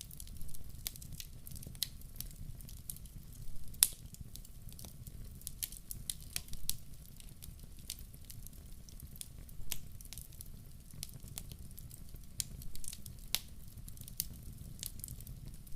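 Fire crackling in a fireplace: irregular sharp pops and snaps over a steady low rumble, the loudest pop a little under four seconds in.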